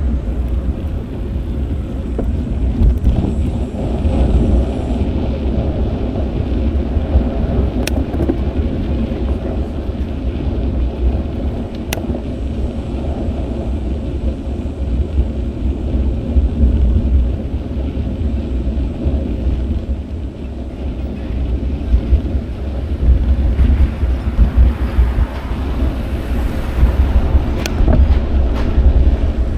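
Wind and road noise on the microphone of an action camera riding on a moving bicycle: a steady low rumble with passing street traffic, and three light clicks.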